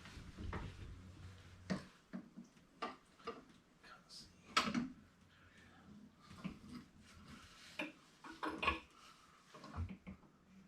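Irregular light clicks, clinks and knocks of curtain-rod hardware being handled and fitted, with a faint low hum that stops about two seconds in.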